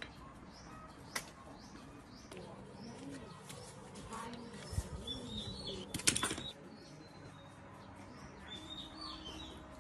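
Small birds chirping in short calls, with a few sharp knocks or clicks, the loudest a quick cluster about six seconds in.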